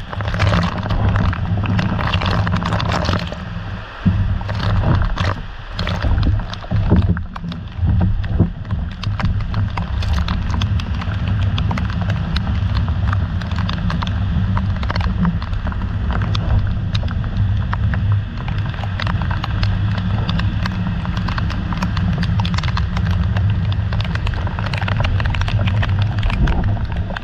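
Heavy rain in gusty wind striking a camera: a steady low rumble of wind buffeting the microphone, with many quick irregular taps of raindrops hitting the camera.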